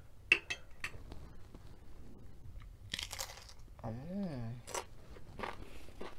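Crunching bites and chewing of a nacho tortilla chip loaded with toppings. Sharp crisp crunches come in the first second, then further crunches, and about four seconds in a short hummed 'mmm' rises and falls.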